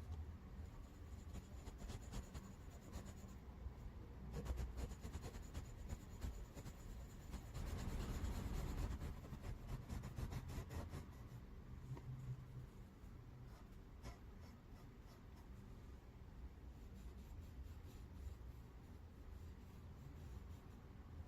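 Soft rubbing and scratching of a cotton swab working chalk pastel onto a paper card, busiest for several seconds in the middle and lighter toward the end.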